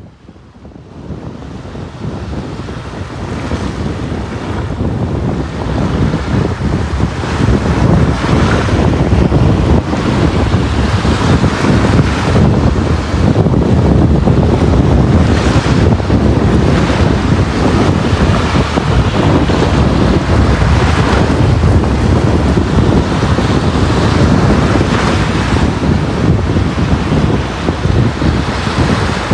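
Sea waves breaking and washing ashore, with heavy wind rumble on the microphone. It fades in from quiet over the first several seconds, then holds steady, the surf swelling and hissing every couple of seconds.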